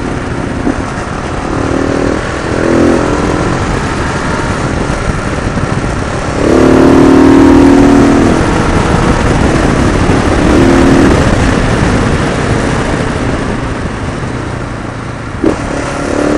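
Motorcycle engine running on the ride and swelling several times under throttle, loudest about six to eight seconds in, over a steady rush of riding noise.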